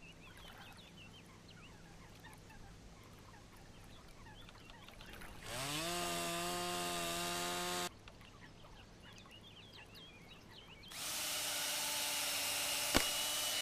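A handheld electric power tool runs twice for a couple of seconds each time, its motor spinning up to a steady whine, with a sharp click near the end. Faint birdsong can be heard between the runs.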